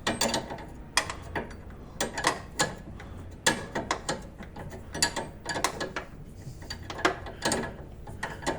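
Ratchet wrench tightening the self-locking nut on a new suspension stabilizer link, clicking in short runs as the handle is swung back and forth, about once a second.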